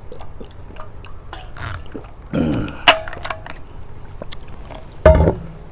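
A person drinking water, then letting out a vocal exhale that falls in pitch, with a sharp click a moment later and a short low throaty sound near the end.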